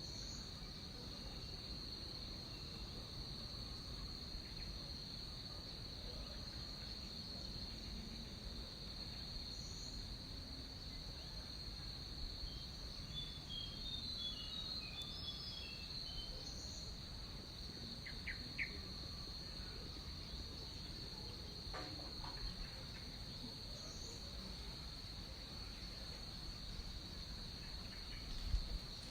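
Tropical forest insect chorus: a steady, unbroken high-pitched drone. A few faint bird chirps come midway, and a short higher call repeats about every seven seconds.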